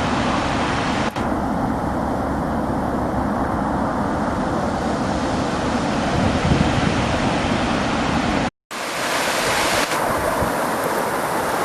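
Waterfall: a steady rush of falling water. It drops out for a moment about eight and a half seconds in, then comes back brighter and hissier.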